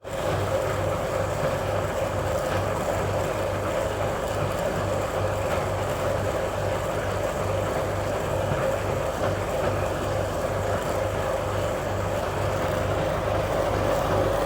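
1966 Bendix LA automatic washing machine running its rinse: the motor turns the stainless steel drum through the rinse water with a steady hum and an even low pulsing.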